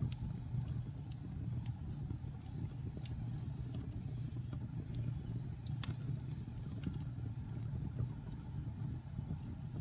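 Wood fire burning in a fireplace: a steady low rumble of flames with scattered sharp crackles and pops, one louder pop about two-thirds of the way through.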